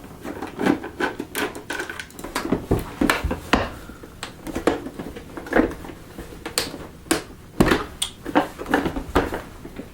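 Irregular clicks, taps and clatter of a plastic vacuum cleaner housing and screwdriver being handled as the casing is unscrewed and opened.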